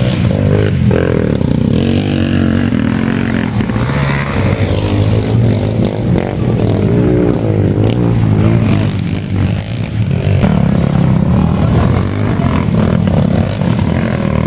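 Several dirt bike engines racing on an enduro motocross course, their pitch rising and falling as the riders accelerate and shift.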